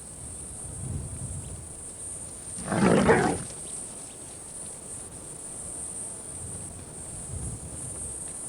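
A lion gives one short, harsh growl about three seconds in, over faint low background noise.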